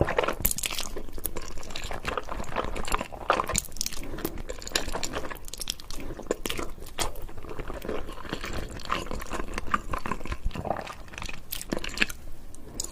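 Someone chewing and biting a mouthful of Indomie instant noodles, in a run of irregular mouth clicks and smacks.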